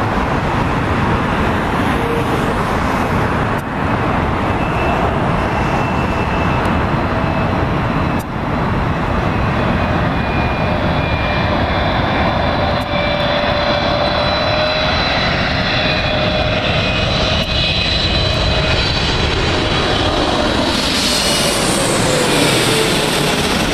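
Jet airliner engines, loud and steady, with high whining tones over the noise. Near the end one tone falls in pitch as the aircraft passes.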